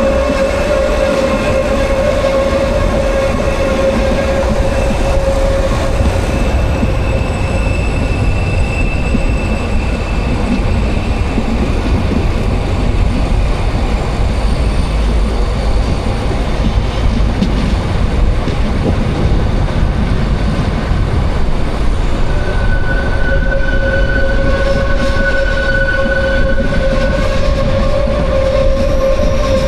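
Narrow-gauge train running along the track with a steady rumble of wheels on rail. A held, high wheel squeal from curving sounds over the first few seconds and again through the last several seconds.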